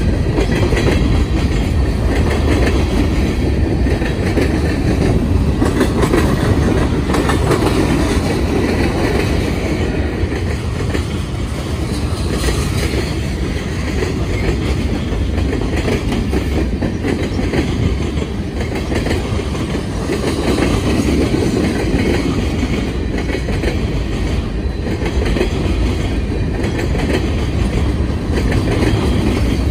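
Freight train cars of covered hoppers and tank cars rolling past close by at a steady speed: a continuous rumble of steel wheels on rail, with clicks of the wheels passing over rail joints.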